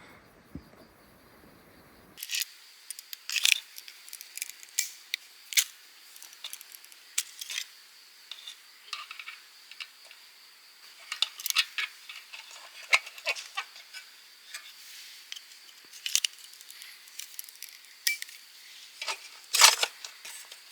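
Irregular light clicks and clatters of small hard objects being handled, the loudest cluster near the end, over a steady high chirring of insects.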